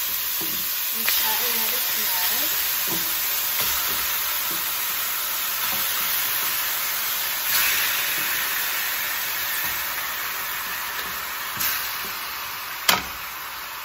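Raw chicken pieces going into a hot stainless steel pot of sautéing onion, garlic and ginger, frying with a steady sizzle that briefly surges as pieces go in. The sizzle slowly fades toward the end, and there is one sharp clank about a second before the end.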